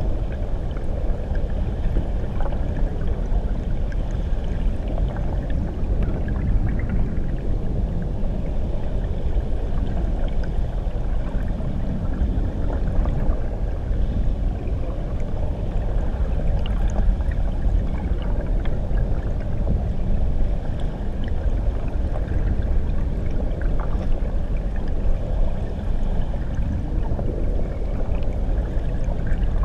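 Rushing water heard underwater beneath a waterfall: a steady, muffled, low rushing with faint scattered ticks of bubbles.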